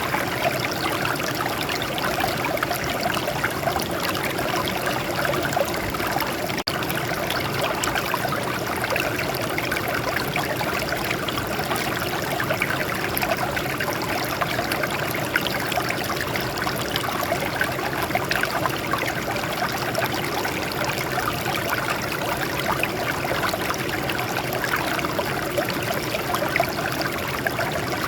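Water flowing and trickling over rocks, a steady rushing with fine rapid splashes.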